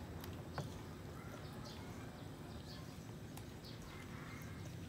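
Outdoor ambience with faint, scattered bird chirps over a low steady rumble, and a couple of soft clicks.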